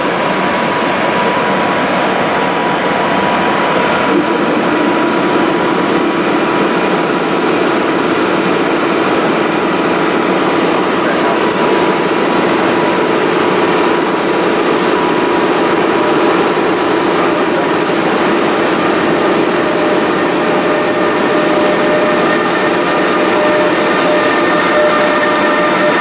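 Steady rolling noise of rail traffic, joined near the end by the whine of several steady tones as a Bombardier Traxx class 186 electric locomotive hauling container wagons approaches and draws alongside.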